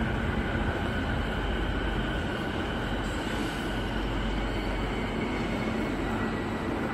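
A subway train running in the station, heard as a steady low rumble with a faint high tone over it.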